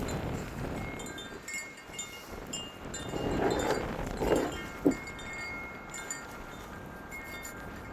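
Wind chimes tinkling irregularly in a strong wind, with gusts buffeting the microphone and a short knock about five seconds in.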